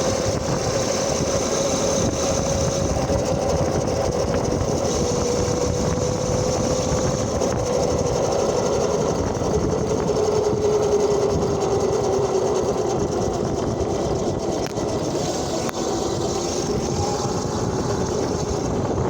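Homemade electric motorbike with an alternator as its motor, running under way: a steady motor whine that drifts slowly lower, with a second, higher whine rising near the end, over a steady rushing noise.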